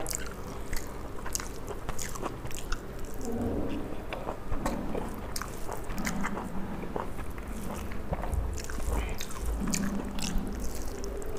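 Close-miked eating sounds: wet chewing and biting with many small clicks and crunches while rice mixed with leafy saag is eaten by hand. Fingers mix the food on a steel plate, and there are a few soft hums with the mouth closed.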